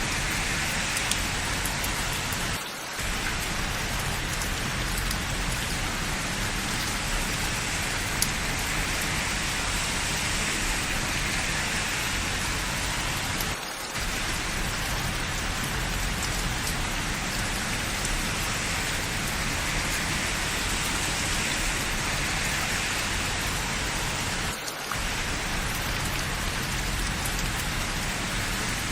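Steady rain falling, an even hiss, dipping briefly in level three times.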